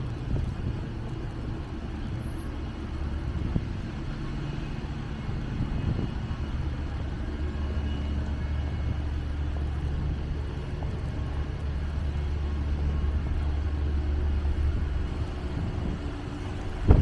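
Steady low rumble of a vehicle engine, strongest in the middle stretch, with no clear start or stop.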